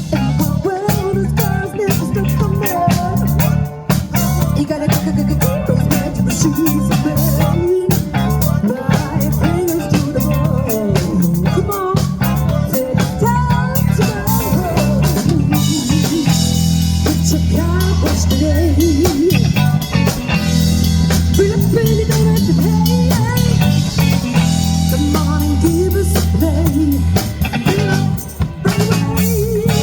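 Live band playing a funk number on electric guitar, bass guitar and drum kit. The cymbals and bass grow fuller about halfway through.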